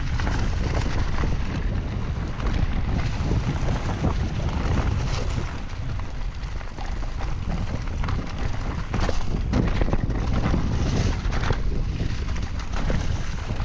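Wind buffeting the action-camera microphone while a full-suspension mountain bike is ridden down a rough trail, with many short knocks and rattles from the bike over the ground.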